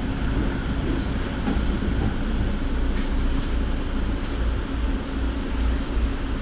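Passenger train running, heard from inside the carriage: a steady low rumble with a faint, even hum.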